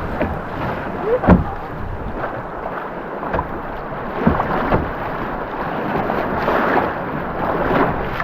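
Rushing whitewater under a canoe running a rapid, with wind buffeting the microphone and a few sharp hits, the loudest about a second in.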